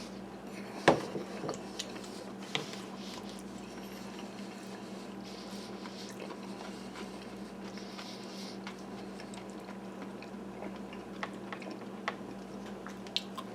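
A person eating: cutlery clinks sharply against a dish about a second in, then quiet chewing with a few small clicks, over a steady low hum.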